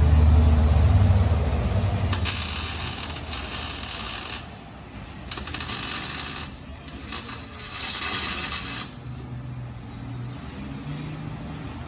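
Exhaust-shop tool work on the muffler pipe: three loud bursts of hissing, scraping noise a second or two long, after a low hum that fades in the first two seconds.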